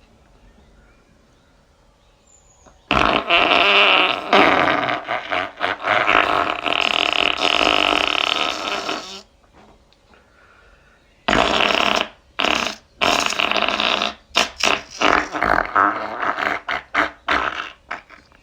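Mouth-made fart noises, a person blowing raspberries: one long sputtering raspberry lasting about six seconds, then after a short pause a choppy run of short, rapid sputters.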